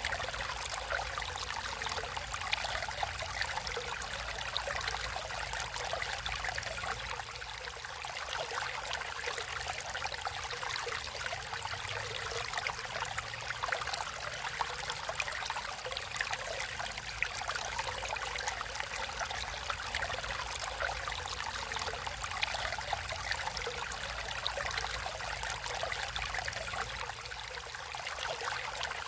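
Natural stream of water flowing and trickling steadily, with a fine splashing crackle in the higher range.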